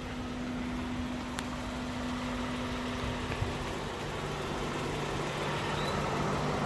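Toyota Highlander's 3.5-litre V6 idling steadily, its hum growing slightly louder toward the end, with a faint click a little over a second in.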